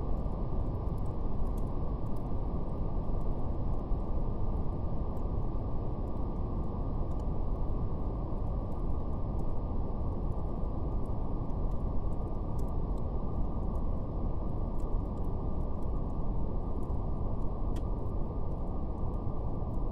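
Steady brown noise: a deep, even rushing with nothing high in it, unchanging throughout. Faint scattered crackles of a fire sit lightly on top.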